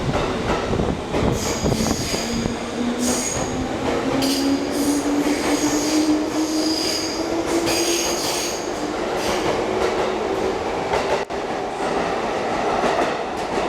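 JR West 205 series electric train pulling out of the platform, its motor tone rising slowly in pitch as it gathers speed. High wheel squeal comes and goes over it, with some rail clatter.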